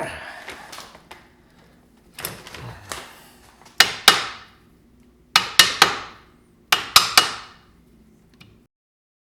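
Hammer blows on metal: eight sharp, ringing strikes in groups of two, three and three, after some clattering of parts and tools.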